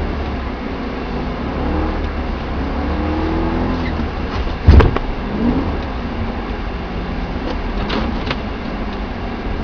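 A BMW E90 M3's V8 engine running steadily as the car is driven, its pitch shifting a little, with one loud thump about halfway through.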